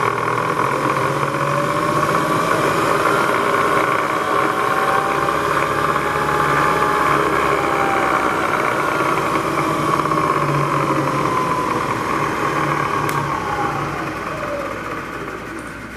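Bridgeport EZTrak II CNC vertical mill's spindle running in low gear with a steady mechanical hum, its pitch rising and then falling through the middle. The sound winds down over the last few seconds as the spindle slows toward a stop.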